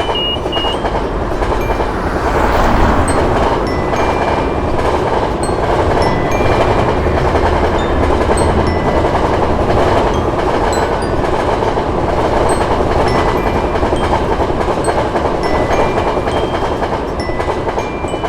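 A train passing: a loud, steady rumble and rattle of wheels and cars running over the track, which builds in the first couple of seconds and then holds. Faint, short high tones sound above it.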